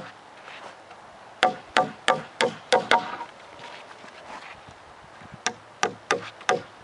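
Hammer driving nails into a cedar picnic-table board: a quick run of about seven strikes starting about a second and a half in, then about four more near the end, each with a short ring.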